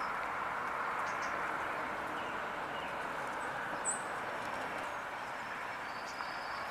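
Steady outdoor background hiss with a few faint, brief high bird chirps.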